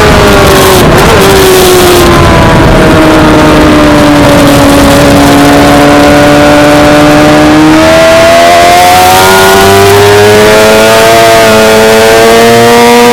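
Suzuki GSX-R600 race bike's inline-four engine at high revs, its pitch sliding steadily down for about five seconds as the throttle is rolled off, holding low, then climbing again under acceleration.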